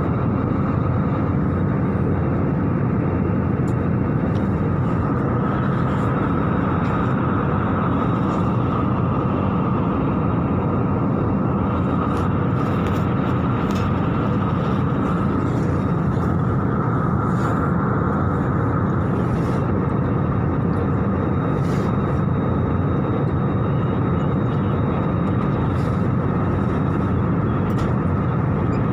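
Steady cabin noise of an airliner in flight: an even rush of engines and airflow, with a few faint clicks in the middle.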